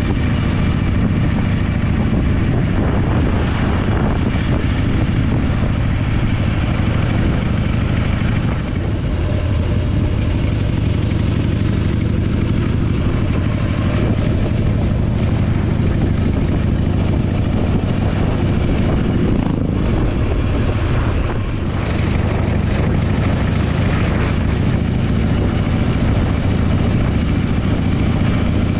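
Harley-Davidson Panhead V-twin engine running steadily under way on a chopper fitted with a replacement muffler, the engine sound easing briefly twice, about 8 seconds in and again about 21 seconds in.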